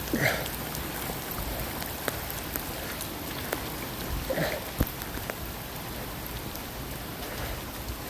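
Steady rain falling, with scattered sharp drops striking close by. A short sound that falls in pitch is heard near the start and again about four and a half seconds in.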